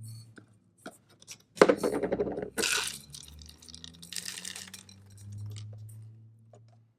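Popcorn and unpopped kernels being poured and shaken out of a glass microwave popcorn popper, rattling and clinking against the glass in a few bursts, the loudest from about one and a half to three seconds in.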